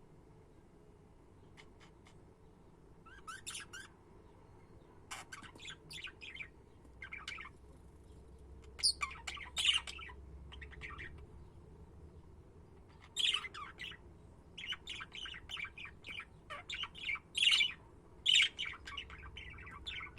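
Budgerigars chirping and chattering in short bursts of quick, sharp notes, sparse at first and busier from about halfway through.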